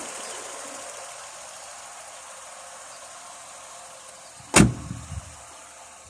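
A faint hiss fades with the car's engine off, then a car door shuts with one solid slam about four and a half seconds in, followed by a smaller knock.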